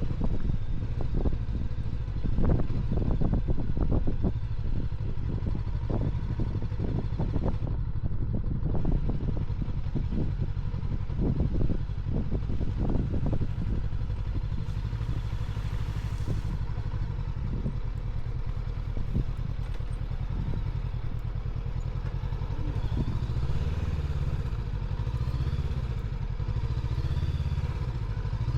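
Honda NX500 parallel-twin engine running as the motorcycle is ridden, with many short knocks and rattles over a rough gravel road through the first half. Near the end the engine note rises and falls with the throttle.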